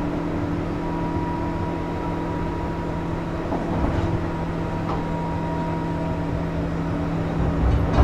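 Running sound inside a JR West 201 series thyristor-chopper electric train at speed: a steady low rumble with constant hum tones and a few faint clicks from the rails.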